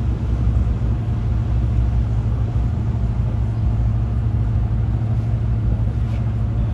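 Steady low engine rumble with a constant deep hum.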